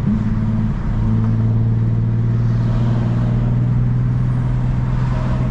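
Infiniti G35's exhaust, its muffler and resonator deleted, giving a steady low engine drone while the car is driven, with a brief break in the tone just under a second in.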